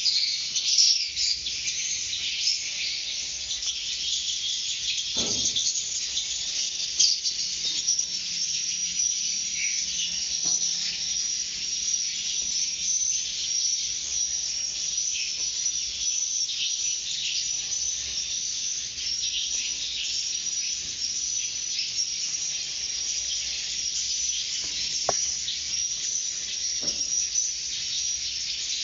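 Dense, steady chorus of insects and chirping birds, high-pitched and continuous, with many short overlapping chirps and trills.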